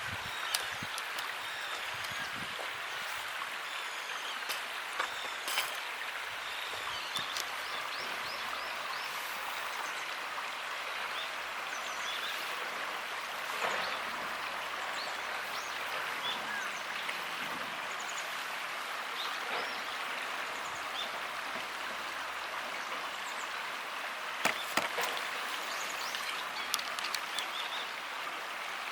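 Steady rush of flowing water, with small birds chirping now and then and a few light clicks.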